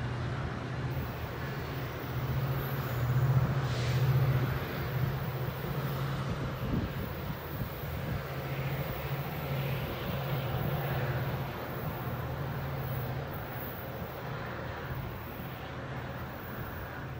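Metrolink bilevel commuter train pulling away: a steady low diesel drone with the rumble and hiss of wheels on rail. There is a louder stretch about three to four seconds in, and the sound eases off slightly as the train recedes.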